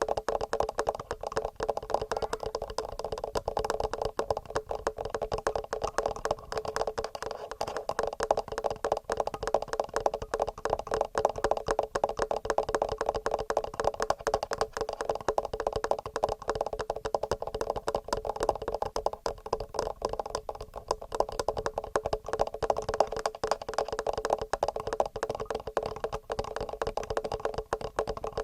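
Fingernails tapping quickly and regularly on a TASCAM recorder's microphone, a dense, even patter of clicky taps for mic-tapping ASMR.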